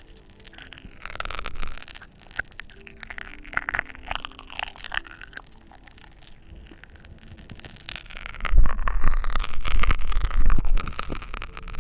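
Close-miked ASMR mouth sounds: dense crackling clicks and scraping hiss, with a louder low rumble on the microphone for a few seconds in the second half.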